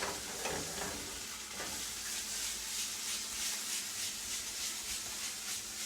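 Pan of chicken livers, onions and mushrooms with tomato paste sizzling steadily as the paste cooks out.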